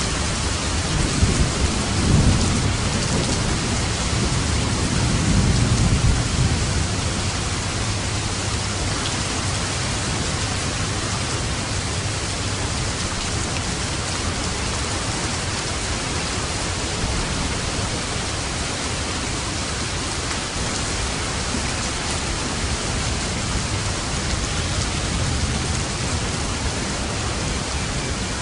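Steady heavy rain with rolling thunder: two low rumbles in the first six seconds, then unbroken rainfall.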